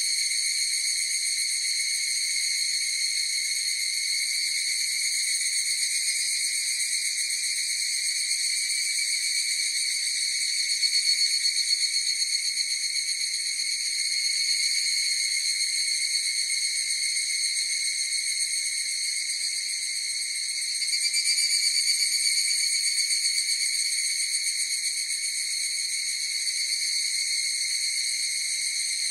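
A chorus of higurashi (evening cicadas, Tanna japonensis) calling in a steady, high, ringing drone that swells slightly about 11 seconds in and again around 21 seconds in.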